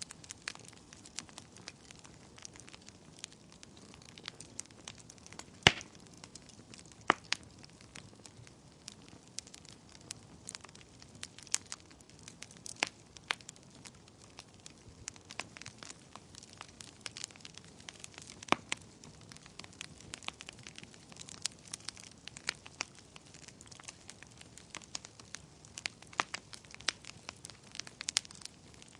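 Wood fire in a fireplace crackling: a soft hiss with irregular snaps and pops, a sharp louder pop about six seconds in and a few more spread through.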